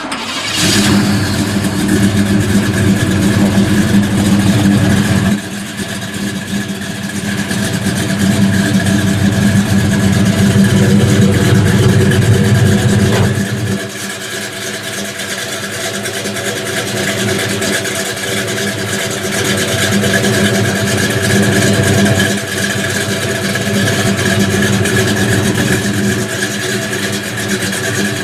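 A muscle car's engine running steadily at a low pitch, with sudden changes in level about five and thirteen seconds in.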